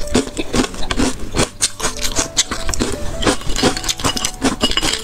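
Crispy fried pork cracklings being chewed close to a clip-on microphone: a quick, irregular run of sharp crunches, several a second. Soft background music with a simple melody plays underneath.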